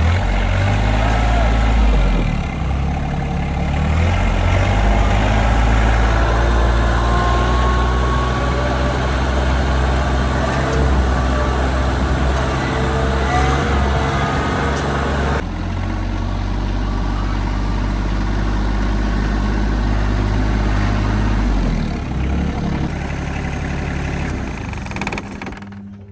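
RK25 compact diesel tractor engine running steadily. The level drops a few seconds before the end, and the engine sound falls away just at the end.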